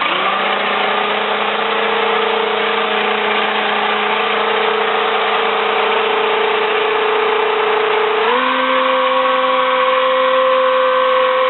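Small electric motor of a remote-control toy running at a steady high whine, stepping up to a faster speed about eight seconds in.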